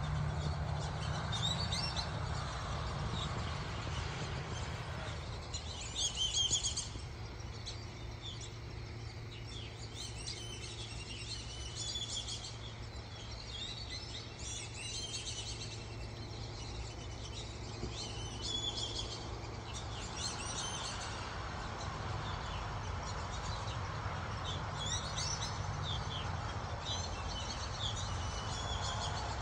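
Birds chirping and whistling in short, high clusters that repeat every second or two, with one louder burst about six seconds in, over a steady low rumble.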